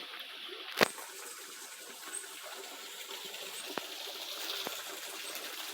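Steady rush of running water, with one sharp knock just under a second in and two fainter clicks later.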